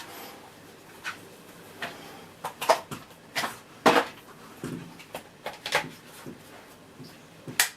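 Scattered plastic clicks and knocks as the parquet floor head of a Miele C3 cylinder vacuum is handled and fitted onto the wand, with the motor switched off. The loudest knocks come about a third and halfway through.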